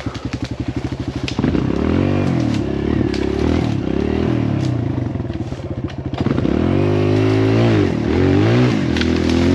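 Kawasaki KLX140L dirt bike's single-cylinder four-stroke engine chugging at low revs for the first second or so, then revving up and down repeatedly as it is ridden. The revs dip about six seconds in, then rise again and are held high with smaller rises and falls.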